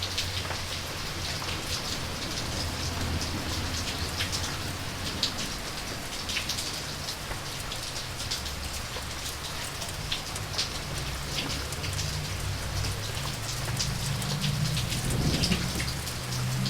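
Steady rain falling, with many distinct drops striking close by over the wash, and a low rumble underneath that swells near the end.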